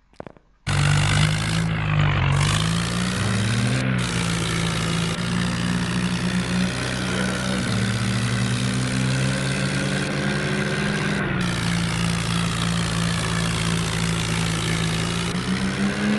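Tractor diesel engine running, cutting in suddenly about half a second in; its pitch wavers up and down for a couple of seconds, then holds steady.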